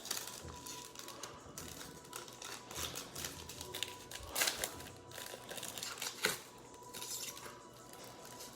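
Crinkling and rustling of a trading-card pack wrapper being torn open and handled, with a few sharper clicks about four and a half and six seconds in.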